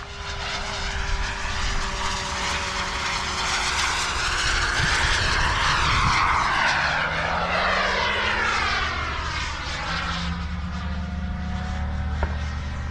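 Fuel-powered engine of a radio-controlled model airplane flying past, getting louder to a peak about halfway through and then dropping in pitch as it goes by.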